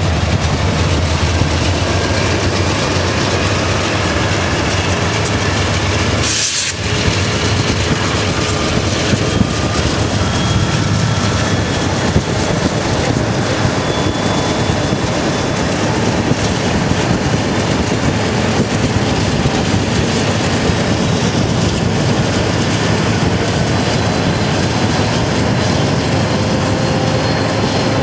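Freight train with diesel locomotives running alongside at speed: a steady rumble of engines and wheels on the rails, heard from a vehicle pacing the train.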